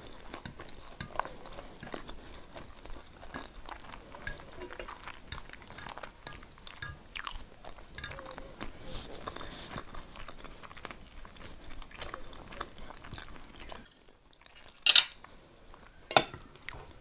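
A person chewing and eating close to the microphone, with many small clicks and mouth sounds. Two louder sharp clinks come near the end, likely cutlery against a plate.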